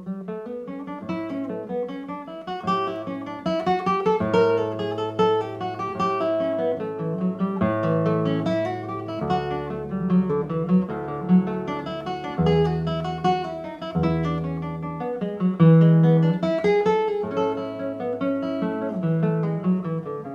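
Background music on acoustic guitar: steady picked and strummed notes over a low bass line.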